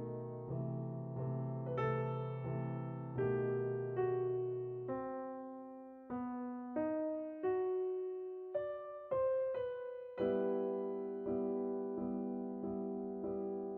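Soft piano music: a slow melody of struck notes over chords, thinning to single notes in the middle and returning to fuller chords near the end.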